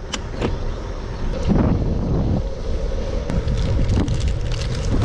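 Wind buffeting the microphone of a bicycle rider on rough off-road ground, with scattered clicks and rattles from the bike. A steady hum sets in about a second and a half in.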